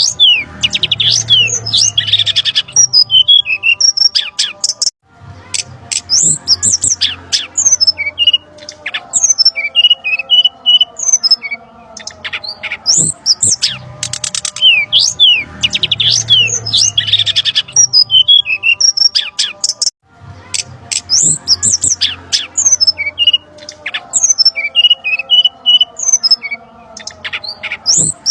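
Looped bird-lure recording of brown-chested jungle flycatcher calls: a busy run of rapid chirps and down-slurred whistles. The sequence breaks off briefly and starts over about every fifteen seconds, with a faint steady hum underneath.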